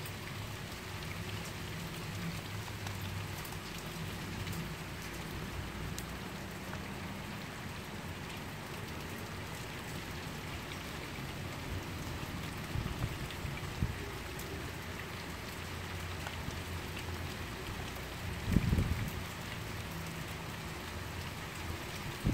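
Steady rain falling, with a few brief low thumps, the loudest about three-quarters of the way through.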